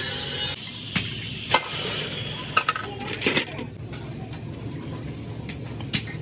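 A harsh scraping or rasping noise that cuts off about half a second in, followed by scattered sharp metallic clinks and knocks, as of tools and metal parts being handled during a truck axle repair.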